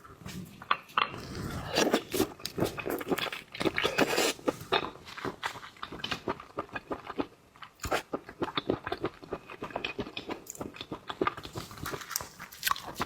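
Close-miked seafood eating: a dense, irregular run of crunching clicks and chewing as shellfish is bitten and chewed.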